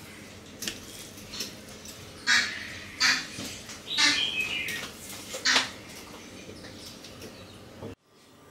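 Several short, harsh bird calls, about four over three seconds, one of them longer with a falling pitch.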